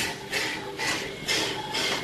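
Steam locomotive No. 93, a 1909 ALCO 2-8-0, chuffing steadily, about two exhaust beats a second.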